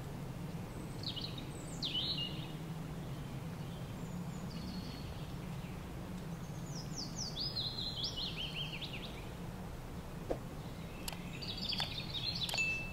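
Small birds chirping over a steady low hum: a few short calls, then a run of about eight quick falling notes, and a busier cluster of chirps near the end.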